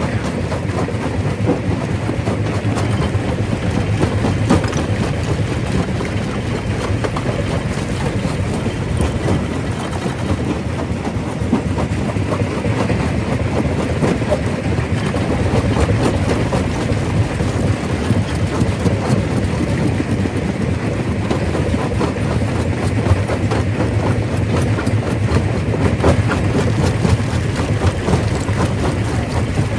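Primary rock crusher running: a steady heavy rumble with a dense, continuous clatter of rocks knocking and breaking.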